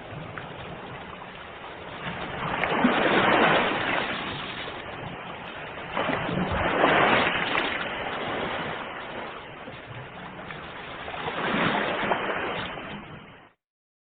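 Ocean waves breaking and washing ashore, three surges about four seconds apart over a steady wash. The sound cuts off abruptly near the end.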